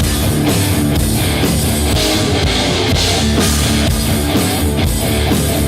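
Live rock band playing an instrumental passage between sung lines: electric guitar, bass and drum kit.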